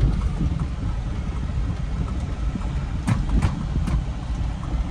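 Car engine and road rumble heard while driving, steady and low, with a few sharp clicks about three seconds in.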